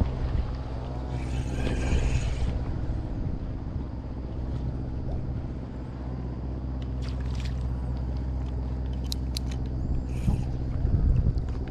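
An engine running steadily at an even speed, with a few short sharp clicks in the second half.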